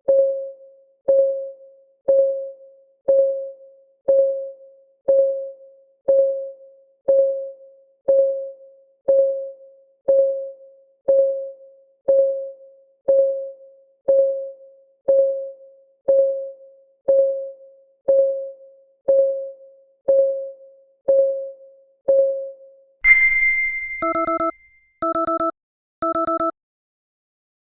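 Countdown timer's clock ticking, one short ringing tick a second. Near the end the timer runs out: a bright chime sounds, followed by three short alarm beeps.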